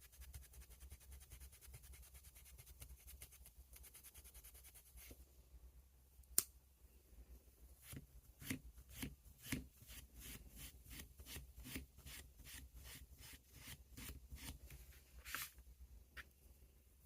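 Quiet handling sounds: a fine rapid rubbing for the first few seconds, then a single sharp click, then a run of light clicks about two a second that stops near the end.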